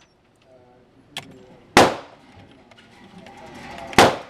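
FN 510 Tactical 10mm pistol firing two shots a little over two seconds apart. Each is a sharp crack with a short ringing tail.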